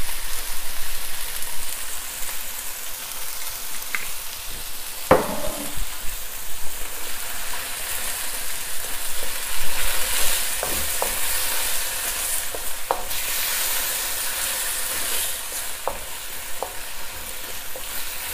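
Chicken and potato pieces sizzling in a hot wok in soy and oyster sauce, on a high heat. A utensil stirring them gives scattered knocks and scrapes against the wok.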